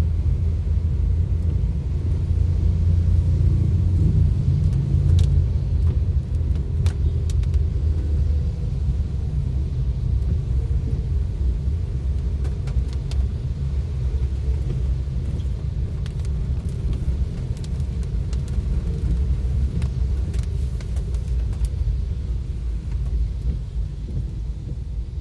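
A vehicle driving through heavy rain: a steady, loud low rumble of road and engine noise, with scattered sharp ticks.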